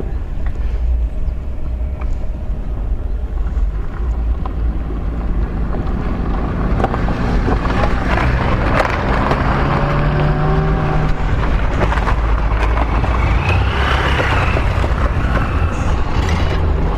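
Road traffic going past: cars' engines and tyres, with the rumble building up about halfway through and staying loud to the end.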